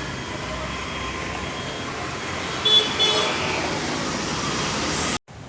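Steady outdoor street and crowd noise with two short horn toots in quick succession a little past halfway. The sound cuts out abruptly near the end.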